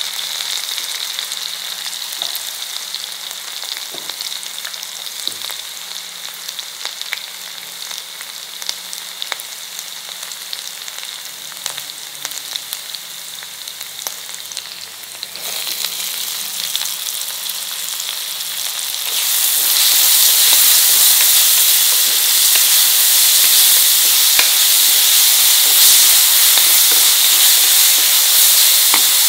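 Sliced green chillies sizzling in hot oil in a kadai. About two-thirds of the way through, the sizzle becomes much louder and stays loud as chopped onions fry in the oil and are stirred with a spatula.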